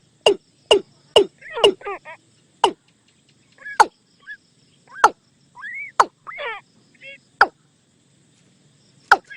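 Watercock calling: a series of sharp 'kok' notes, about one every half second at first and then spaced out to one every second or more, with short arched calls in between; a quiet gap of about a second and a half comes just before a last note near the end.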